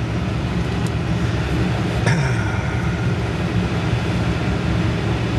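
Pickup truck engine running low and steady in the cab while the truck crawls along a rutted bush track. There is a light knock about a second in and a louder clunk about two seconds in as it goes over bumps.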